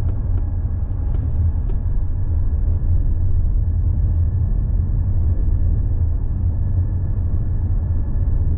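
Car driving on a narrow back road, heard from inside the cabin: a steady low rumble of tyres and engine with a thin steady whine above it. A few faint ticks come in the first couple of seconds.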